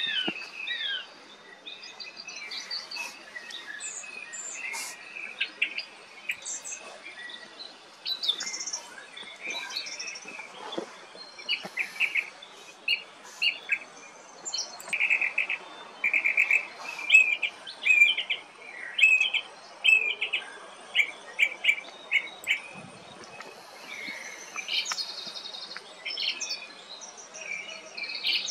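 Small songbirds chirping and singing, many short calls and trills of varying pitch overlapping, busiest and loudest in the middle stretch.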